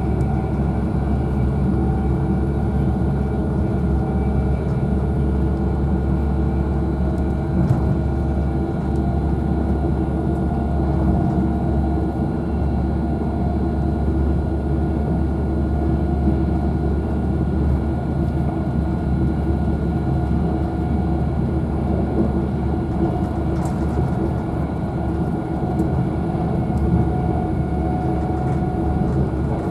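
Cabin noise inside a Virgin Trains Class 390 Pendolino electric train running at speed: a steady low rumble of wheels on rail with steady whining tones above it. A single knock sounds about eight seconds in.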